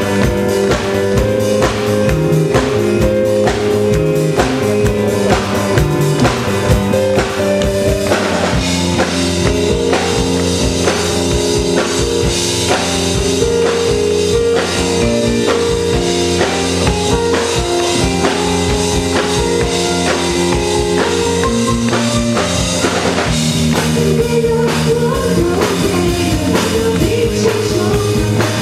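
A live piano-rock trio playing: a drum kit keeping a steady beat under bass and keyboard chords, with perhaps a little singing.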